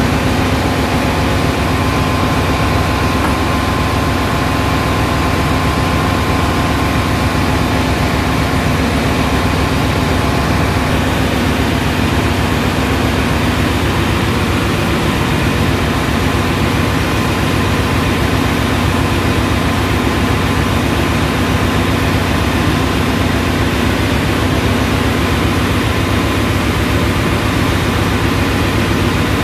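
Ship's engine room machinery running: a loud, steady mechanical din with a constant hum and a faint whine over it.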